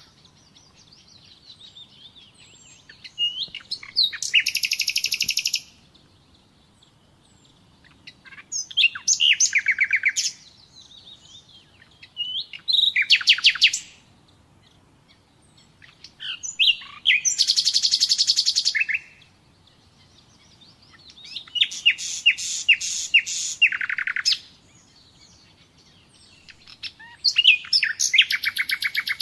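Nightingale singing: six loud song phrases a few seconds apart, each about two seconds of fast repeated notes, with soft quieter notes between phrases.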